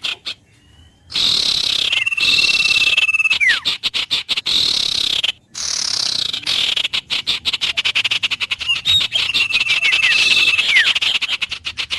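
Wild animals calling: a loud, rapidly pulsing chorus in two long bouts with a short break between them. Twice a clear held whistle sounds over the chorus and ends in a quick downward slide.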